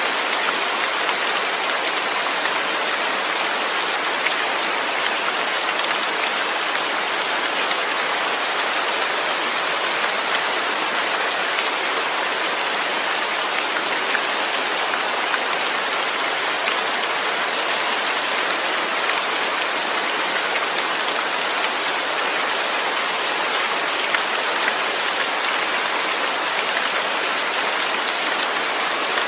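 Steady rain falling, an even hiss of drops with fine scattered patters and no let-up.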